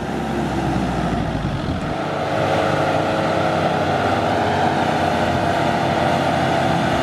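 Land Rover Defender Td5's five-cylinder turbodiesel engine held at high revs while the wheels spin in soft sand: the vehicle is stuck and the tyres have no grip. The engine note steps up a little about two seconds in and then holds.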